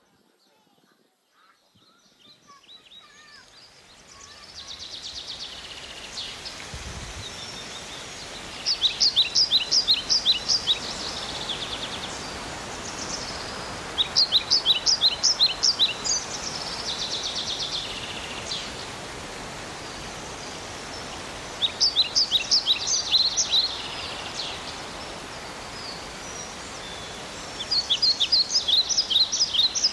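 A small songbird singing, four times over, a quick run of about ten high, sharp repeated notes, over a steady outdoor hiss.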